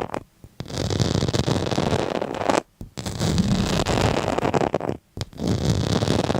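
Long scratchy scraping strokes, each about two seconds, with brief pauses between them.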